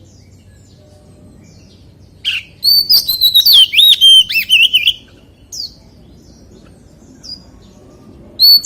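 Oriental magpie-robin singing: after a quiet start, a loud phrase of whistled notes that swoop up and down, from about two seconds in to five, then a couple of single notes, and the next phrase begins just before the end.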